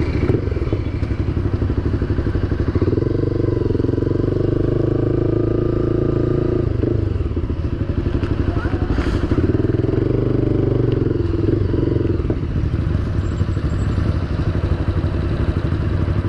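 Small-displacement motorcycle engine running while riding. Its note swells twice for a few seconds each.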